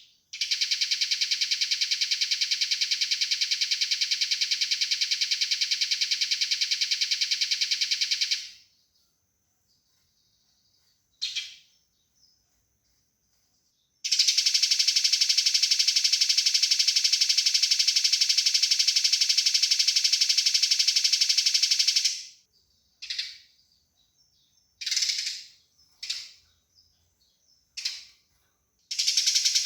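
Eurasian tree sparrows chattering in a fight: two long runs of rapid, harsh, densely packed chirps of about eight seconds each. Short single chirps fall between and after the runs, and another run starts near the end.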